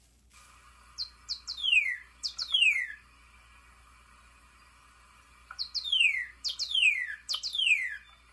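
A songbird singing two phrases, each a quick run of about five downward-slurred whistled notes. The first phrase comes about a second in, the second about five and a half seconds in.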